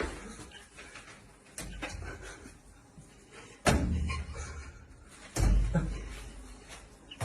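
A few sudden dull thumps or knocks, the two loudest a little past halfway and about three-quarters through, each followed by a low rumble.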